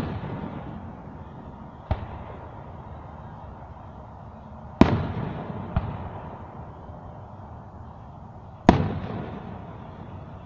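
Aerial fireworks shells bursting: sharp booms about every four seconds with smaller bangs between them, each trailing off in a rolling echo.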